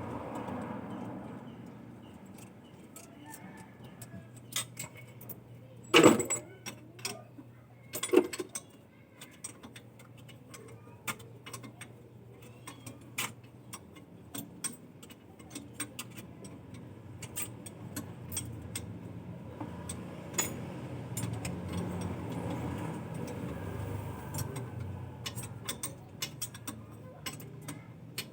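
Irregular metallic clicks and clinks, with two much louder knocks about six and eight seconds in, over a low steady hum.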